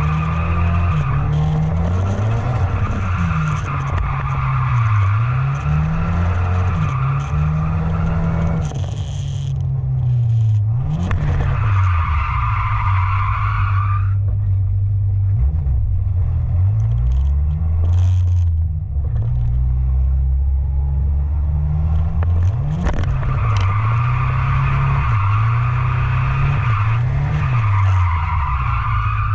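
Drifting truck: its engine revs rise and fall constantly as the throttle is worked, and its tyres squeal in long stretches while sliding: at the start, again about halfway through, and through the last few seconds.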